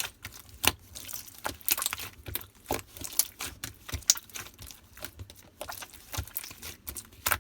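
Hands squishing and pressing slime, making irregular sticky clicks and pops, a few each second.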